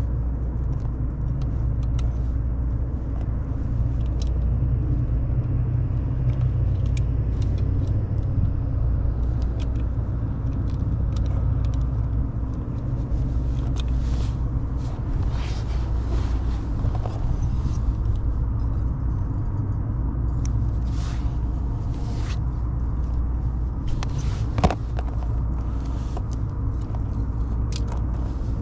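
Steady low rumble, with light clicks and taps scattered through it. The clicks come more often in the second half, and a sharper click falls near the end.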